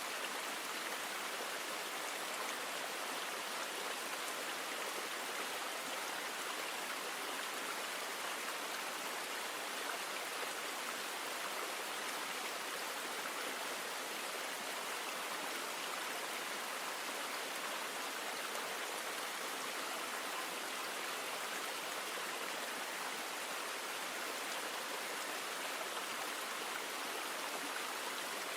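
Steady rush of flowing river water, an even hiss with no changes.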